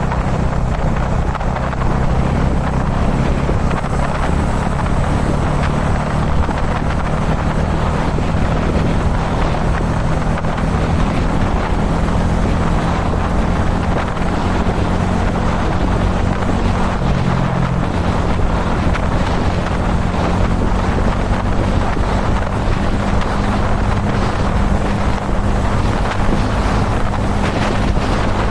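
Kawasaki Dominar 400 UG2's single-cylinder engine running at a steady cruise, its note holding nearly level, under heavy wind rush over the microphone.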